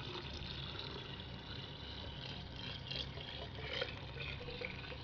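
Warm water pouring steadily into a kettle onto the descaling acid in it, a continuous filling sound.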